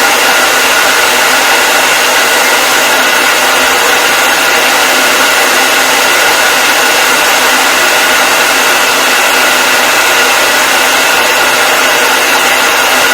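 Hair dryer running continuously, a steady loud rush of air with a faint motor whine and no change in speed.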